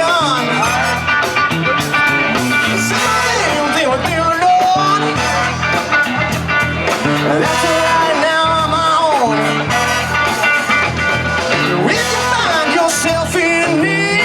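Live band playing bluesy rock, with guitar and a bending lead melody over a steady bass line.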